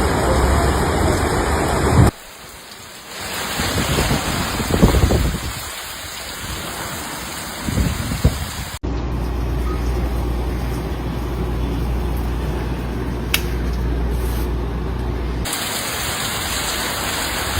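Storm ambience of rain and wind noise, in several spliced clips that change abruptly every few seconds. The longest clip, from about nine seconds in, carries a steady low rumble under the rain.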